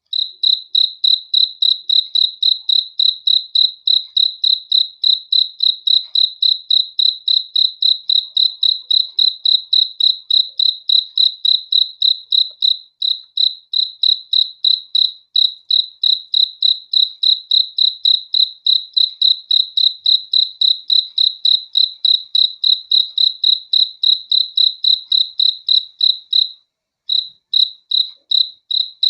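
A cricket chirping in a steady, high-pitched train of short chirps, about four to five a second, breaking off briefly near the end.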